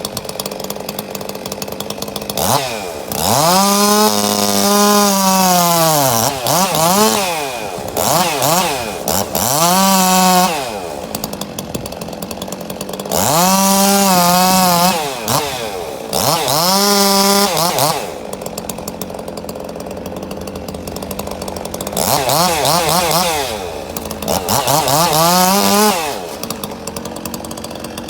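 Two-stroke chainsaw being throttled up to full revs and let back to idle about six times, the pitch climbing and dropping with each burst, as it cuts into a tree being felled.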